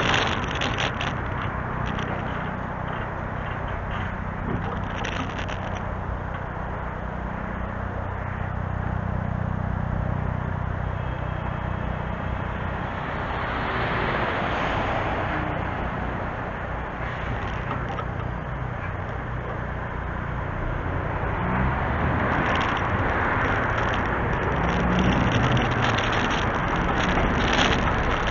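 Scania G410 truck's diesel engine running, its low hum wavering slightly in pitch, under a steady rushing noise.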